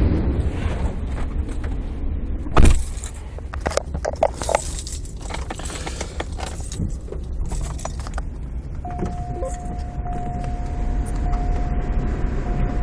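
Keys jangling inside a car, over a steady low rumble. A single sharp knock comes about two and a half seconds in, and a flurry of clicks and jingles follows. From about nine seconds a steady single-pitch electronic tone sounds, with brief breaks.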